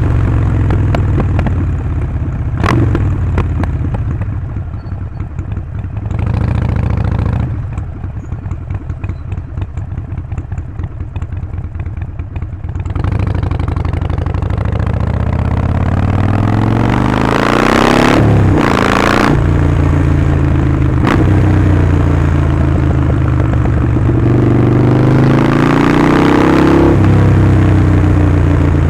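Harley-Davidson Sportster 48's 1200 cc V-twin through Vance & Hines slip-on exhausts, under way: a few seconds in it drops to a quieter, low, lumpy beat, then the revs climb steeply, break off briefly in a loud hissy rush, and climb again near the end.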